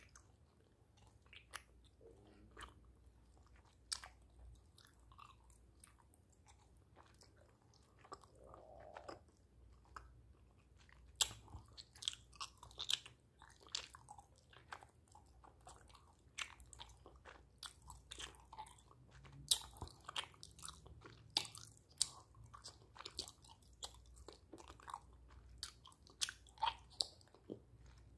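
Sugar-coated sour gummy candy being chewed right at the microphone: sticky, wet mouth clicks and smacks. The clicks are sparse at first, then come thick and fast.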